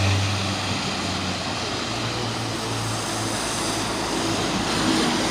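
A motor vehicle's engine running steadily, its low hum over a constant rushing noise on the wet road.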